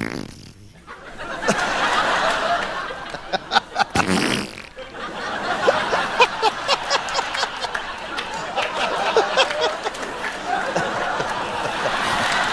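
Spluttering, raspberry-like mouth sound effects made by a man into a microphone, over studio audience laughter.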